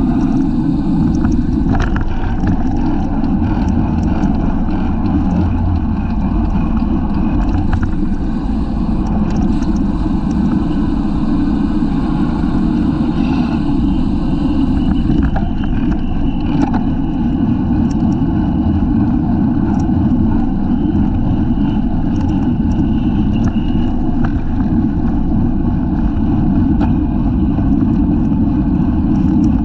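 Wind rushing over a bicycle-mounted camera's microphone at racing speed, a loud, steady low rumble mixed with tyre and road noise, with a few faint scattered clicks.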